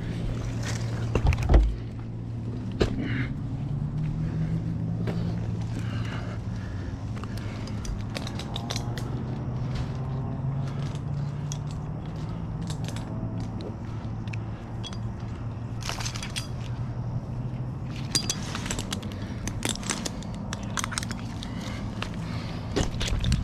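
An engine running steadily at a low hum, its pitch rising briefly a few seconds in, with scattered clicks and knocks and one loud thump about a second and a half in.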